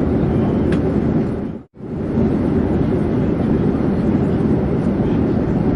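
Steady airplane noise, an even low drone without distinct tones, that dips briefly to silence about a second and a half in and then comes straight back.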